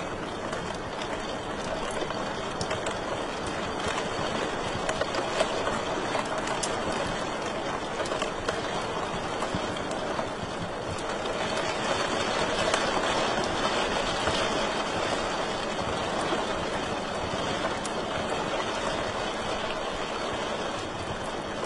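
Wood fire in a fireplace crackling steadily, with a continuous hiss and many small pops and snaps.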